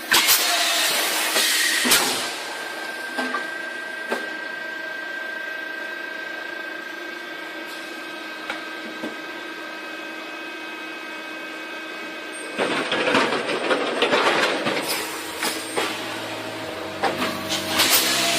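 A machine running with a steady multi-tone hum, broken by loud clattering, rattling stretches near the start, for a couple of seconds past the middle, and again near the end.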